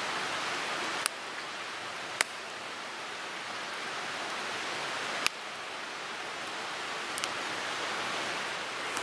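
Wood fire burning in a Picogrill 398 firepit: a steady hiss of flames with a few sharp crackling pops, about four in all.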